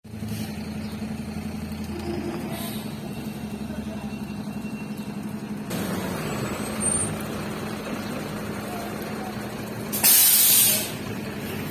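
A vehicle engine running steadily, joined about halfway through by a broader rushing noise, with a loud sharp hiss lasting about a second near the end.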